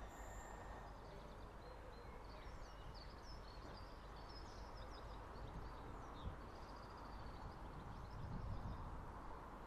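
Small birds chirping and twittering over a steady low background noise, with a low rumble swelling briefly about eight seconds in.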